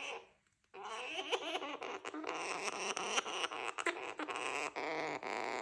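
Young gang-gang cockatoo chattering. A brief call at the start, then from just under a second in a long unbroken run of babbling chatter with small clicks mixed in.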